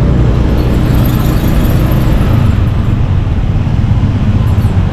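Motorcycle ride through town traffic: the bike's engine and road noise under a loud, steady low rumble.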